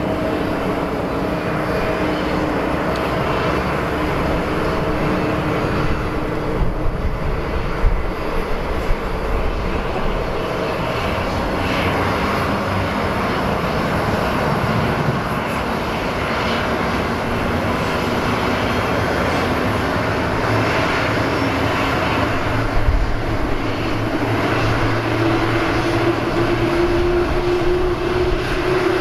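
Jet engine noise from an Airbus A330-300 with Rolls-Royce Trent 700 engines, running steadily during pushback. A low steady tone fades out about seven seconds in, and a tone slowly rising in pitch comes in near the end.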